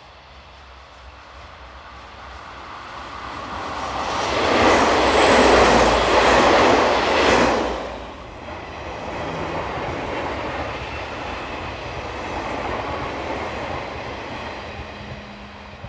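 Red JR Hokkaido 711 series electric train running past on the curve. Its wheel-on-rail noise grows louder to a peak about five seconds in and falls away sharply just before eight seconds. A quieter second spell of train running noise follows as red cars move off.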